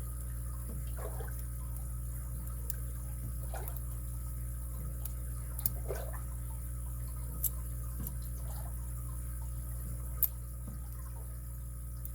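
Lock picks working inside a padlock's keyway: faint scraping with a few sharp small metallic clicks, three of them standing out about six, seven and a half and ten seconds in, over a steady low hum.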